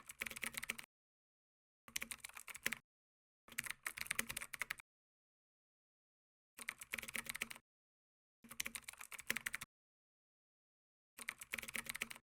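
Computer keyboard typing in six short runs of rapid key clicks, each about a second long, with pauses between.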